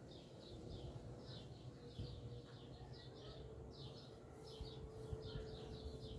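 Small birds chirping in quick, repeated short notes, several a second, with a faint steady hum underneath.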